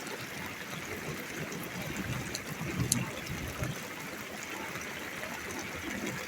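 Steady rain falling, with water trickling and dripping and a few sharp drip taps about halfway through.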